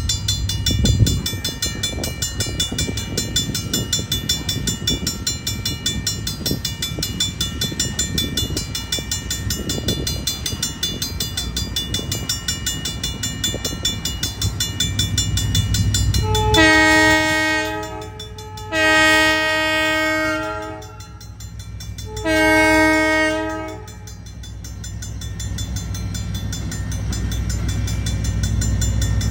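Passenger train running along the track with a rhythmic clatter, then sounding its horn in three long blasts of about two seconds each, a chord of several notes. After the horn a low rumble grows steadily louder.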